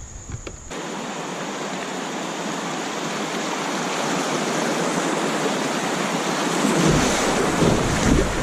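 Rushing river water: a steady hiss that starts suddenly about a second in and slowly grows louder, with low rumbles joining near the end.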